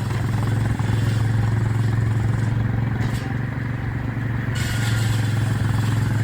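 Engine running steadily at an even speed with a continuous low hum, driving farm machinery.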